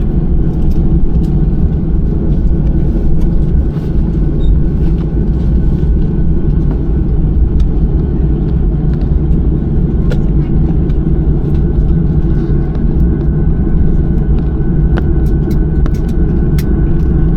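Steady loud rumble inside a jet airliner's cabin as it moves on the ground before takeoff, with a few faint clicks in the last few seconds.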